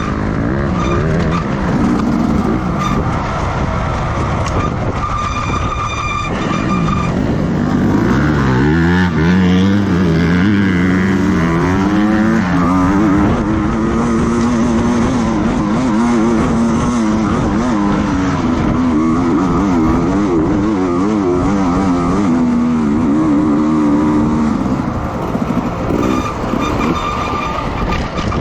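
Racing motorcycle engines revving hard, the pitch climbing and dropping again and again as the bikes shift gears and brake.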